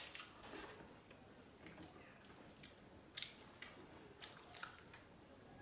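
Faint eating sounds: chewing with scattered soft mouth clicks and smacks, from people eating rice and dal by hand.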